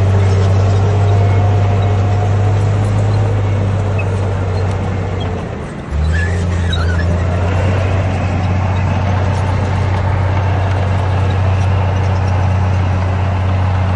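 Bulldozer's diesel engine running steadily under load with a deep drone. Its note sags and comes back abruptly about six seconds in.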